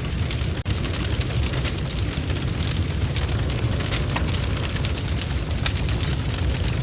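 Wood fire burning with a steady low rumble and frequent sharp crackles and pops, with a momentary dropout about half a second in.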